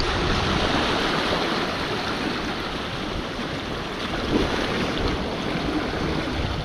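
Sea waves washing steadily against a rocky shore, with wind gusting over the microphone.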